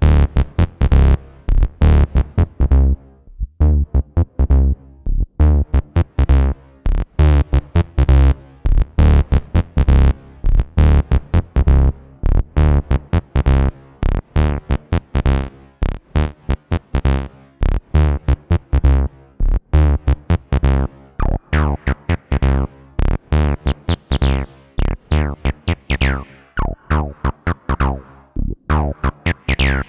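Behringer TD-3-MO analog bass synthesizer playing an acid bassline sequence: a steady pulse of short, staccato notes with a deep low end. In the later part, the resonant filter sweeps downward on the notes, giving falling tones in the upper range.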